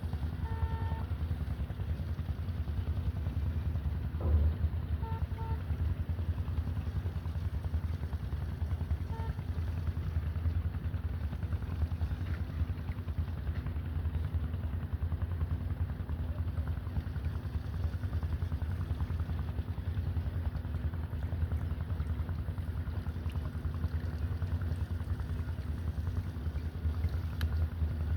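A small engine running steadily, a low drone that holds without change.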